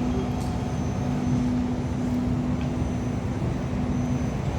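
Sound Transit Link light rail train running steadily: a low rumble with a constant electric hum.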